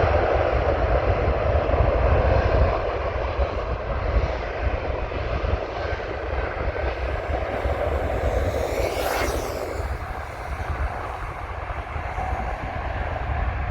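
Airbus A330neo's Rolls-Royce Trent 7000 jet engines at takeoff power: a continuous deep rumble and roar that slowly fades as the airliner climbs away. A brief hissy swell comes about nine seconds in.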